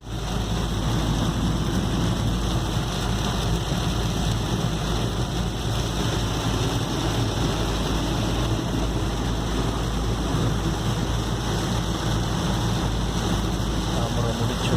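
Continuous heavy rain together with the steady low rumble of a vehicle travelling through it.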